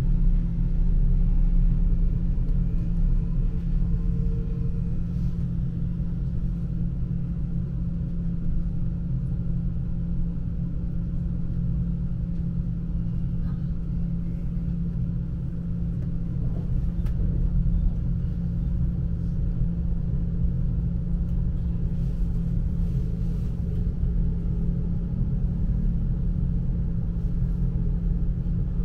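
S-Bahn electric train running at speed, heard from inside the carriage: a steady low rumble of wheels on rails with a faint constant hum.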